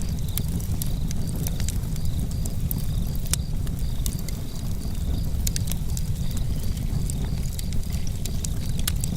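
Campfire crackling: irregular sharp pops and snaps from the burning wood over a steady low rumble of the fire.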